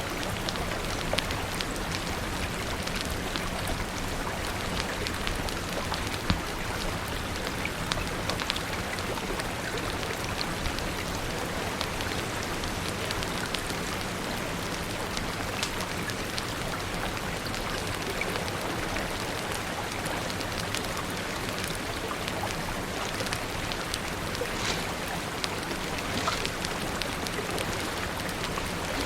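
Steady rain hissing, mixed with a crackling fire that gives scattered sharp pops throughout.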